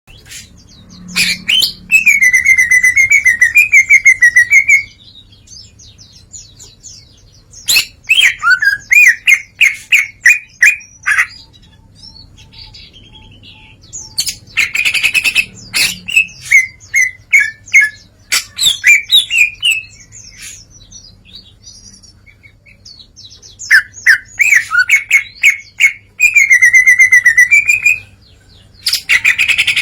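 Green leafbird (cucak ijo) singing loudly in about five bursts of a few seconds each, with rapid trills and chattering phrases and short pauses between them. It is pouring out its repertoire of learned mimicked songs.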